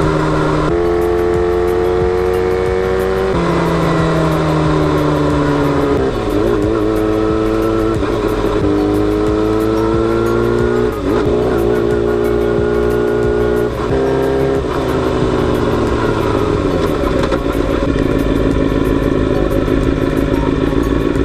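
Kawasaki Balius 250 cc inline-four motorcycle engine and exhaust under way, its pitch climbing under throttle and dropping sharply at several gear changes, then easing off as it slows.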